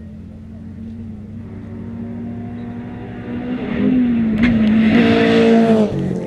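Rally car engine at high revs approaching on a gravel stage, growing steadily louder. As it passes, it is loudest, with gravel crackling and stones ticking under the tyres. Near the end the engine note drops suddenly.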